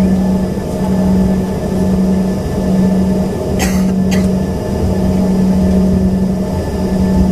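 Steady drone of an Embraer ERJ-145XR's rear-mounted Rolls-Royce AE3007 turbofan engines heard inside the cabin, a strong low hum that swells and dips with thin steady whines above it. A short rattle comes a little over three and a half seconds in, with a fainter one just after.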